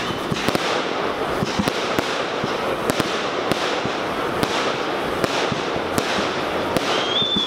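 Fireworks display: dense crackling with sharp bangs going off every second or so. A high, steady whistle starts near the end.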